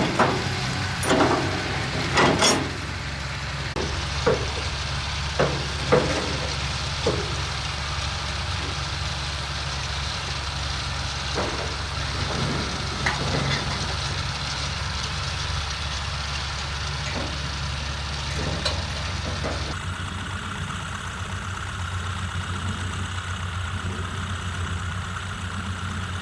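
Small petrol engine running steadily, with a few sharp knocks in the first several seconds; its note changes about twenty seconds in.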